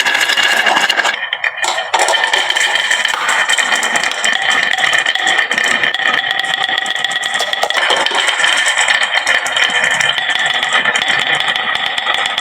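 Many glass marbles rolling and clattering down a wooden marble run, a dense continuous rattle with ringing tones from the rolling, briefly thinning out about a second in.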